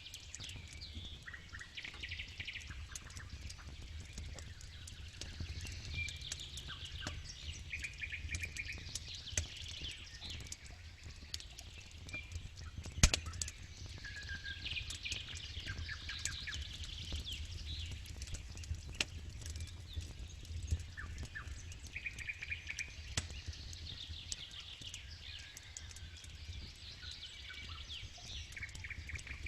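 Campfire crackling with scattered pops and one sharp pop about 13 seconds in, while birds chirp and trill over and over in the background above a steady low rumble.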